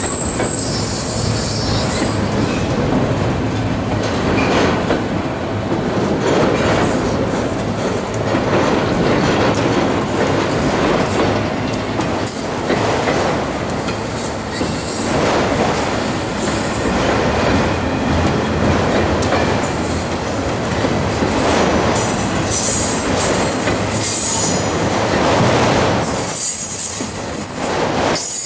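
Freight train cars rolling past, wheels clicking over rail joints, with intermittent high-pitched wheel squeal.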